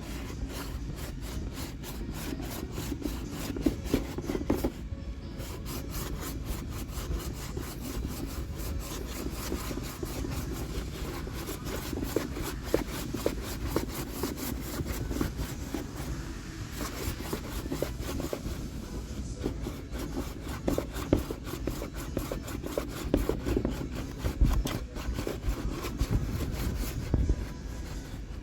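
Heat gun blowing on a plastic bumper while a hand tool rubs and presses against the plastic, with scraping and occasional knocks.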